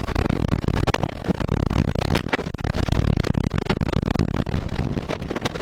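Tornado-force wind rumbling and buffeting the microphone, with several sharp cracks and knocks through it, typical of flying debris striking.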